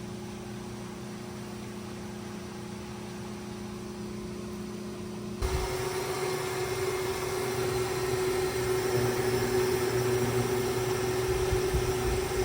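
A steady hum with a fixed low tone under a hiss. About five seconds in it switches abruptly to a louder hiss and hum.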